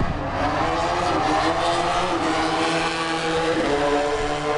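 Motorcycle engines revving, rising in pitch over the first couple of seconds and then held steady.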